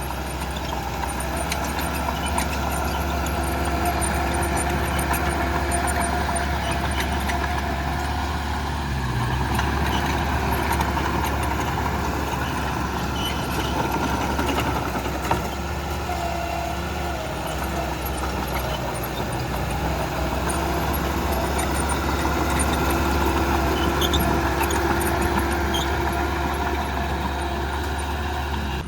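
Heavy earthmoving machinery's diesel engine running steadily under work, its loudness swelling and easing gently, with one sharp click about halfway through.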